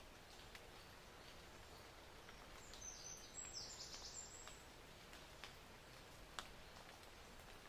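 High, thin bird chirps, a short run of calls lasting under two seconds near the middle, over a faint quiet outdoor hiss with a few soft ticks.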